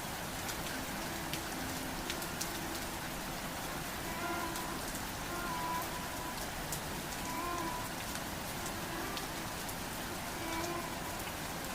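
Steady rain falling, an even hiss with individual drops ticking sharply now and then. Faint short tones come and go underneath.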